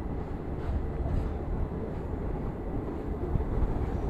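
Passenger train running, a steady low rumble.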